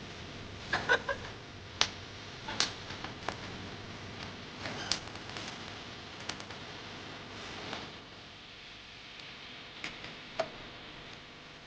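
Campfire wood crackling: irregular sharp pops and snaps over a low steady hiss, with a quick cluster of pops about a second in.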